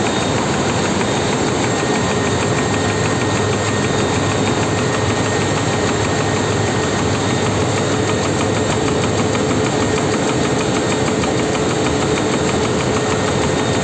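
A ship's engine-room machinery running at a steady speed: a loud, unchanging engine drone with a constant whine over it.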